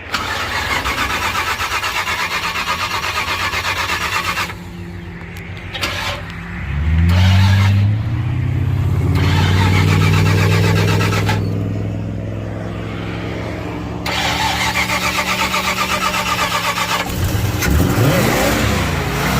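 Old Ford Club Wagon van's engine being cranked by its starter on jump-box power, a fast rhythmic whirr. It catches about six or seven seconds in, picks up speed and runs. Near the end it is revved up and down hard.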